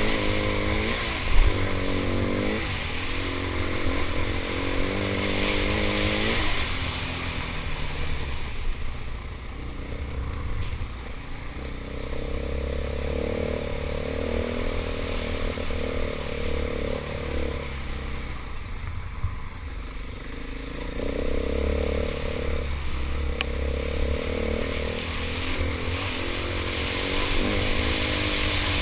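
KTM 500 EXC single-cylinder four-stroke dirt bike engine running on the trail, revving up and down through the first several seconds, then pulling at steadier revs that rise and drop in steps. A sharp knock about a second in.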